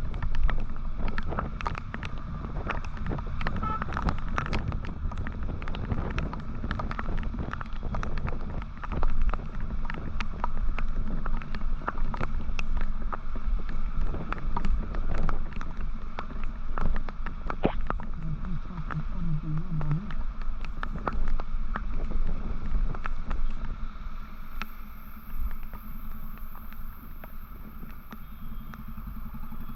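Motorcycle riding on city roads: a low engine and road rumble with wind buffeting the microphone, full of frequent crackles and pops.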